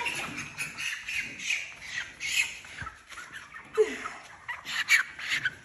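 Young Cornish cross meat chickens squawking over and over as they are caught and handled, with a few sharp knocks, the loudest about four and five seconds in.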